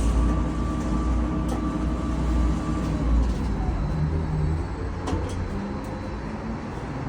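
Heavy diesel engine running at raised revs, then easing off about three seconds in, with a couple of light metallic clinks.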